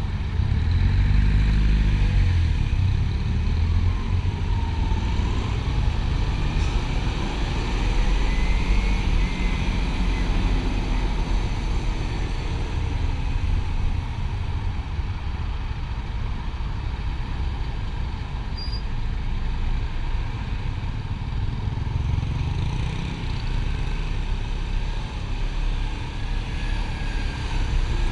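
Motorcycle riding along a highway: the engine runs steadily under a continuous low rumble of road and riding noise.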